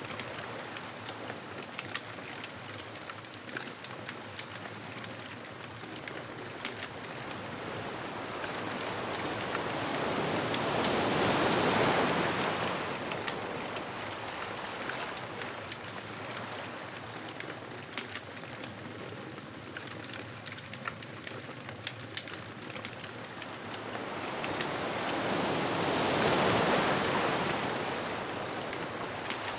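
Ocean waves breaking and washing up the beach, swelling twice, about twelve seconds in and again near the end, while a bonfire crackles and pops throughout.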